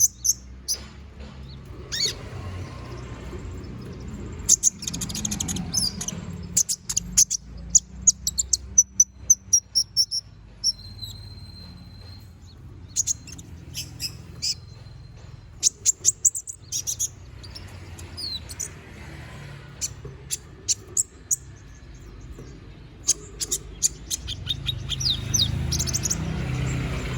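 A konin (kolibri ninja) sunbird singing actively, in quick high-pitched chirps and short trills that come in clusters with brief pauses, over a low background rumble.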